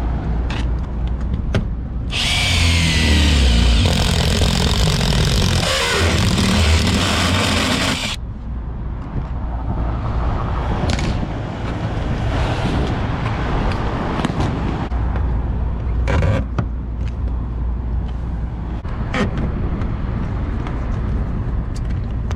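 A cordless power drill runs for about six seconds, its pitch falling as it slows, over a steady low rumble; a few short clicks follow.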